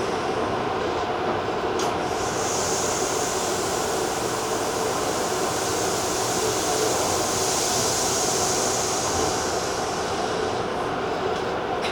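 Steady sound of a Tobu TJ Liner electric commuter train heard from on board: an even rumble with a faint steady hum, and a high hiss that fades in and out. There is one sharp click about two seconds in.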